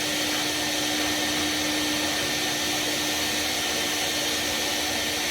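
Vacuum running steadily, a constant motor hum over an even hiss, sucking soot out of an oil-fired boiler's cast-iron fire side during a cleaning.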